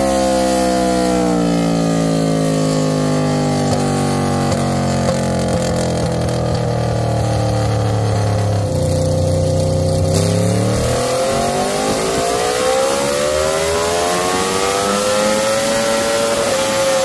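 Aprilia RSV4 1100 Factory's V4 engine with an SC Project GP22 slip-on exhaust, running on a chassis dyno. The engine note falls slowly for about eight seconds, then climbs steadily for about five seconds before dropping back near the end.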